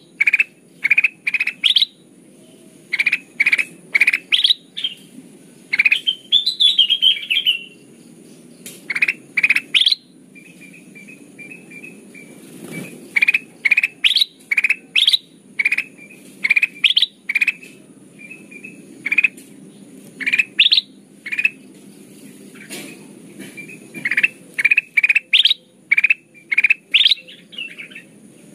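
Kutilang emas (black-crested bulbul) calling over and over as a bird-trapping lure call: short, bright, rising notes in quick runs of three to five, phrase after phrase with brief gaps, over a faint steady hiss.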